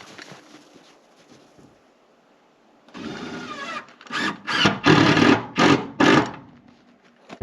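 Cordless screw gun driving screws into sheeting: a run of rattling, then five short bursts about half a second apart.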